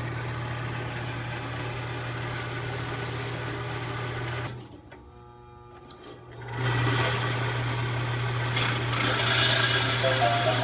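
A steady mechanical hum or buzz from a running machine. It drops away for about two seconds midway, then comes back louder.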